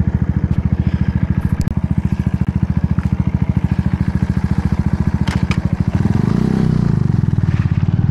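Motorbike engine running as it is ridden, a fast even putter, which turns louder and smoother about six seconds in as the bike speeds up.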